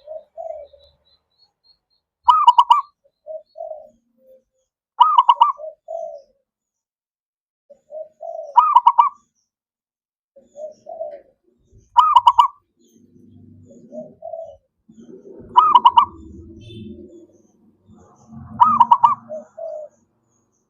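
Zebra dove (perkutut) singing: six repeated song phrases, each a few soft lower coos followed by a loud, higher rolling burst, coming about every three and a half seconds.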